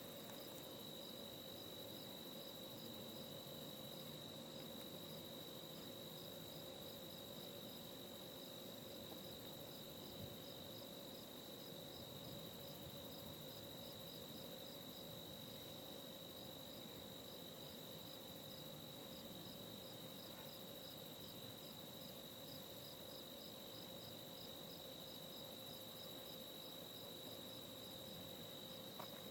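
Faint crickets calling: one steady, unbroken high trill and another chirping in a regular pulse about twice a second, over a faint steady low hum.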